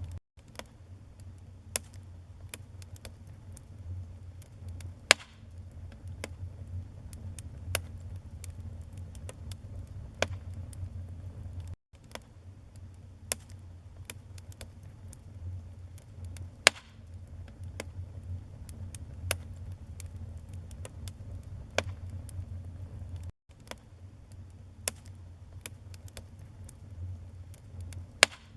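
Wood fire in a fireplace crackling: sharp pops and snaps of burning logs over a low, steady rumble, with a few louder pops. The sound cuts out for an instant about every twelve seconds.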